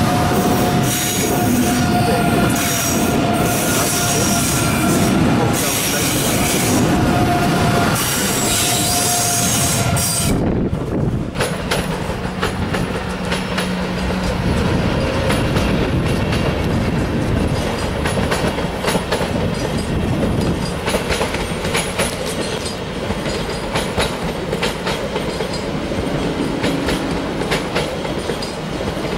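Two train passes. First an ICE high-speed train rolls past along the platform, its wheels squealing with a whining tone. About ten seconds in, the sound changes abruptly to a locomotive-hauled train clattering over the station's switches, a steady run of wheel clicks over rail joints.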